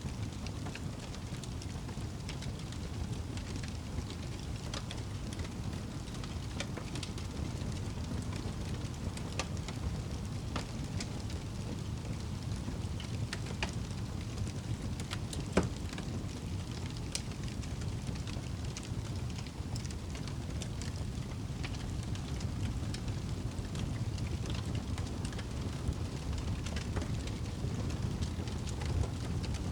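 Wood fire burning in a fireplace: a steady low rumble of flames with scattered crackles and small pops, and one sharper pop about halfway through.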